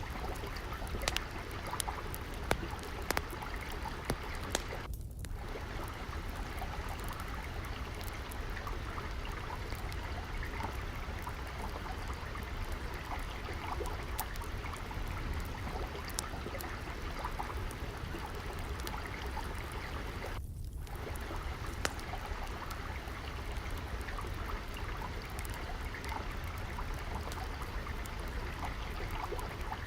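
Steady flowing, trickling water, with scattered small pops and clicks of a crackling wood fire throughout.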